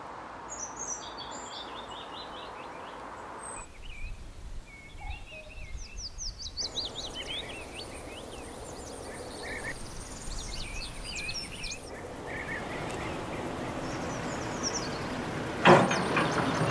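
Several songbirds chirping and twittering over a steady outdoor hiss, the background shifting abruptly a few times. Near the end comes a sudden loud hit, then a louder, noisier rush.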